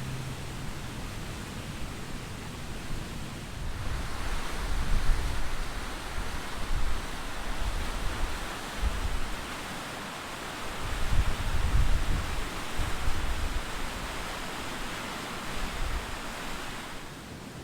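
Rushing water of a waterfall: a steady hiss that grows louder about four seconds in. Low gusts of wind buffet the microphone.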